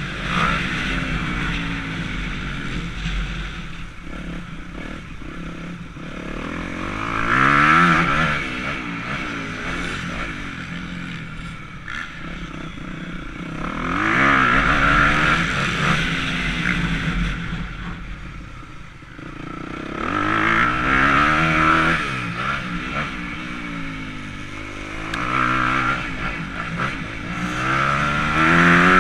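Motocross bike engine revving up and falling off again and again as it is ridden round the track, with the revs climbing to a loud peak roughly every six to seven seconds.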